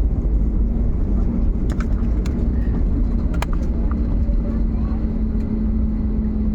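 Cabin noise inside an Airbus A320neo: a steady low rumble with an engine hum that grows a little stronger in the second half, and a few sharp rattles or clicks.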